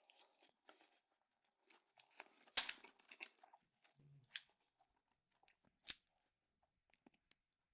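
Faint close-miked eating sounds: chewing with scattered wet mouth clicks and smacks, the sharpest about two and a half seconds in and again near six seconds.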